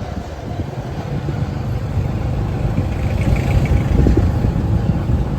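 Motorcycle taxi's engine running as it rides along, a steady low rumble that grows a little louder about two to four seconds in.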